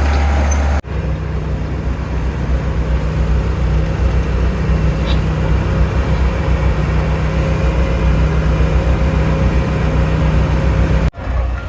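A heavy diesel engine of construction machinery running steadily, a low rumble with a steady hum in it. The sound cuts off abruptly about a second in and again near the end, each time to another stretch of machine noise.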